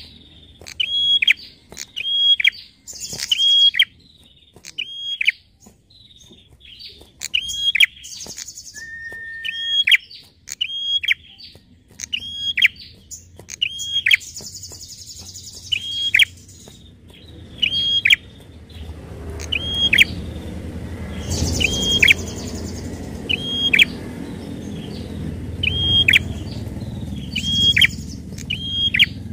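Prenjak (prinia) calling: a long run of short, sharp notes that drop in pitch, roughly one a second, broken every few seconds by a high, rapid rattle and once by a flat whistle. A low rumbling noise builds under the calls in the second half.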